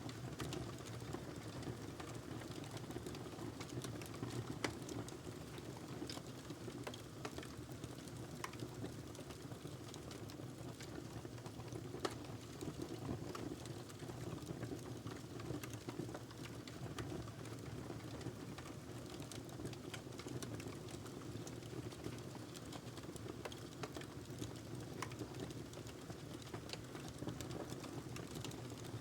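Wood fire burning in a fireplace: a steady low rumble of the flames with irregular crackles and pops from the burning logs, a couple of them sharper than the rest.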